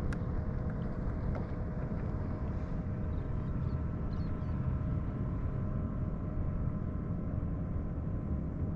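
Steady low rumble with a faint, even engine hum: a boat's motor running.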